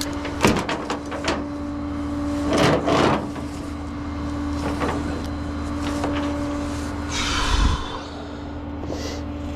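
Tow truck engine idling steadily, with scattered sharp clicks and knocks early on, a louder rattling noise around three seconds in, and a brief hiss with a low thump about seven and a half seconds in, typical of straps and hardware being handled while the car is tied down.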